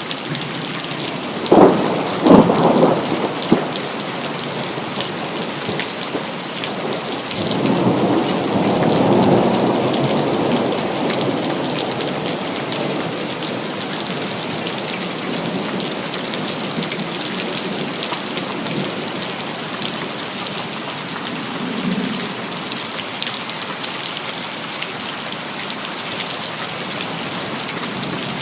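Steady rain falling, broken by a thunderclap: a few sharp cracks about two seconds in, then a rolling rumble of thunder that swells and fades away. A fainter rumble of thunder comes later.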